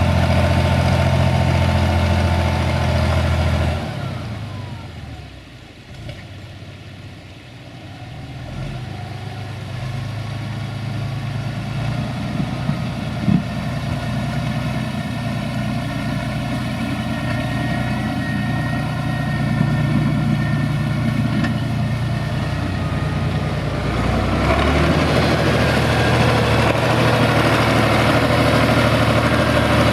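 SAME Laser 110 tractor's diesel engine running under varying load. It is loud at first, drops away sharply about four seconds in, builds back gradually and comes up loud again about three-quarters of the way through. A couple of short knocks sound near the middle.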